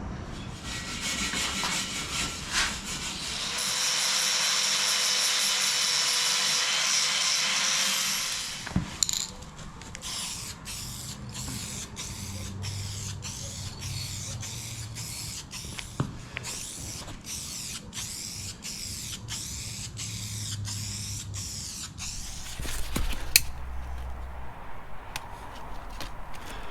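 Wire brush scrubbing weld spatter off welded steel: a steady, loud scratching for a few seconds, then a long run of regular brushing strokes.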